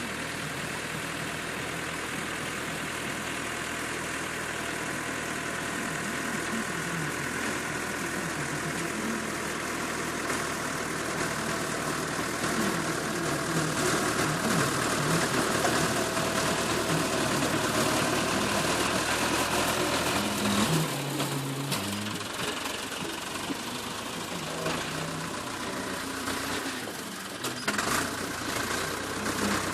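Massey Ferguson tractor engine running steadily, growing somewhat louder partway through and then rising and falling a little.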